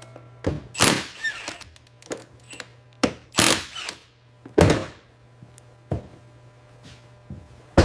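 A series of irregular heavy thunks and knocks, about eight over several seconds, some ringing briefly, over a faint low steady hum: the knocking of panels being fitted and secured during assembly.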